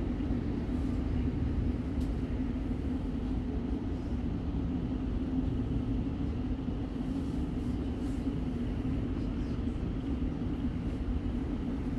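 Interior noise of a Siemens Nexas electric suburban train under way: a steady low rumble from the running gear with a steady hum.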